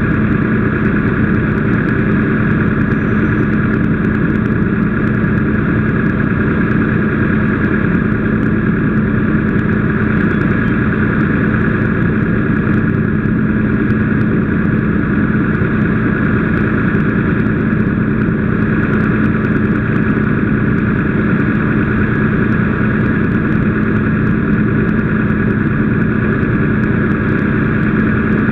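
An engine running loudly and steadily at a constant speed, with a steady hum that does not change.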